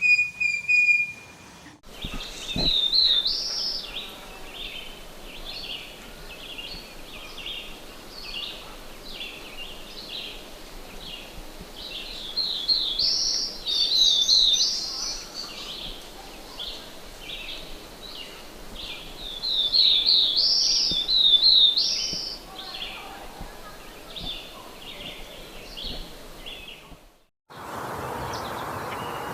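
A songbird singing a long, rapid song of high chirps and trills, swelling louder three times.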